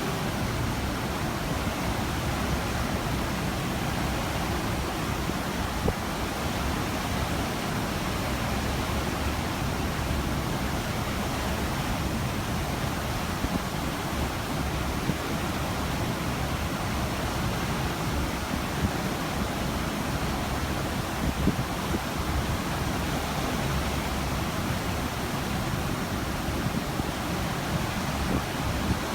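Steady rush of open-ocean water and wind below a cruise ship, a continuous even noise without breaks.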